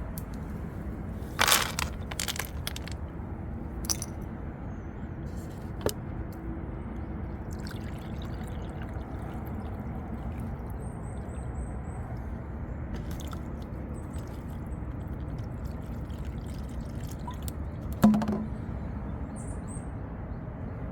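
Steady low rushing noise with a few sharp clicks and knocks, the loudest about a second and a half in and near the end.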